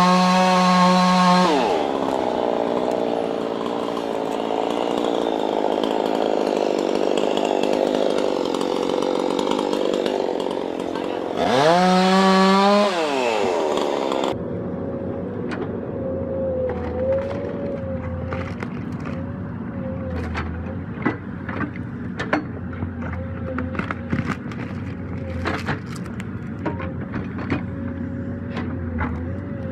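Chainsaw at full throttle dropping into a cut through wood, then revving up and easing off again about twelve seconds in. About halfway through the sound switches to a steady lower engine drone with scattered sharp cracks.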